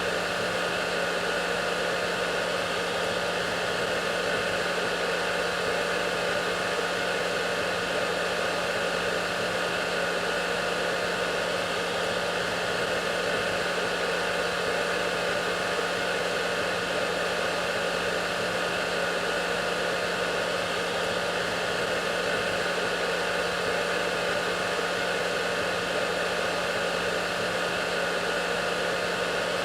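Hair dryer running steadily: a constant rush of air over an unchanging motor hum and whine.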